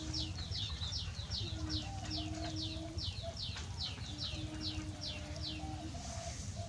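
A bird calling in a fast, even series of short, high, downward-sweeping chirps, about three or four a second, that stops about six seconds in. A few long, steady, low tones sound beneath it.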